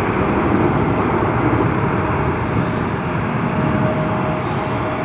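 Jet airliner engine noise, a loud steady rush with a whine rising out of it over the last second or so. A bird chirps repeatedly and faintly above it in the second half.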